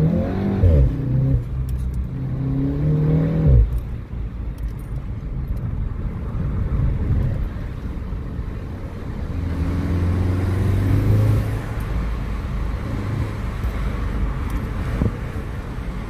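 Volkswagen Golf 7 R's turbocharged 2.0-litre four-cylinder, fitted with an aftermarket downpipe, revving up twice; the second rise in pitch cuts off sharply a few seconds in. It then runs on at a steadier, lower pitch.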